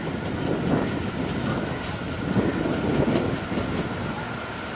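WDM-3A diesel locomotive hauling a passenger train at speed as it approaches: engine noise and wheels rumbling on the rails, with a thin, steady high-pitched squeal from the wheels.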